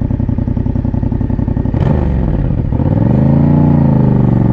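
Yamaha MT-07's parallel-twin engine running steadily under way; about two seconds in there is a brief click and the pitch dips, then the revs climb and ease back down again.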